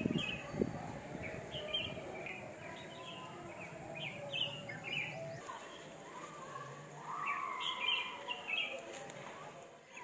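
Small birds chirping, short high notes repeated again and again, with a couple of dull thumps right at the start.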